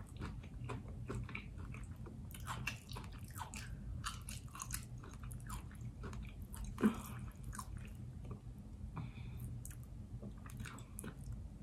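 Close-miked chewing of a fried chicken pot pie egg roll: the crisp wrapper crunching, with many small, quick mouth clicks.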